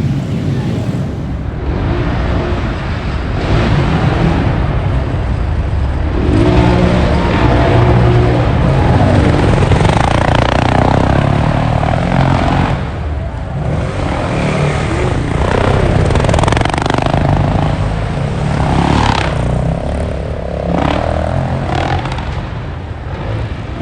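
Motocross dirt bike engines revving, rising and falling in pitch as the bikes accelerate and back off.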